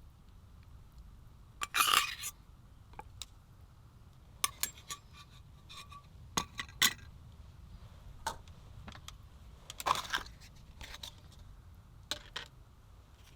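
Scattered clinks and scrapes of eating utensils against tableware, with two longer, louder scrapes about two seconds in and again about ten seconds in, over a low, steady rumble.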